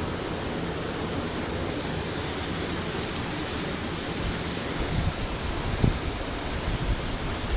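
Steady rushing background noise, with a few soft low thumps in the last few seconds.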